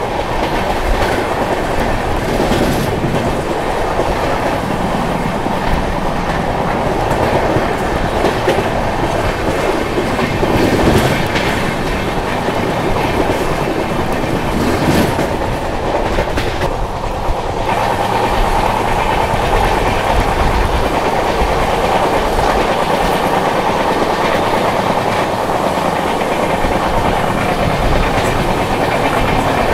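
Indian Railways passenger express train running along the track: a steady loud rumble of the coach wheels on the rails, with the clickety-clack of the wheels passing over rail joints.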